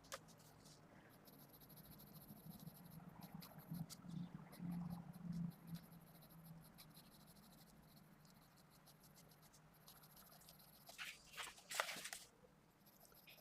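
Faint scratching of a 0.5 mm 2B mechanical pencil on paper, in quick runs of short strokes over a low steady hum. A few louder rubbing strokes come about eleven to twelve seconds in.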